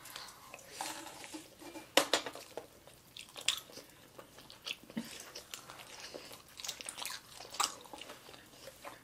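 Close-miked chewing and wet mouth sounds of people eating sushi and baked mussel: soft, irregular smacks and clicks, with a few sharper ones about two, three and a half and seven and a half seconds in.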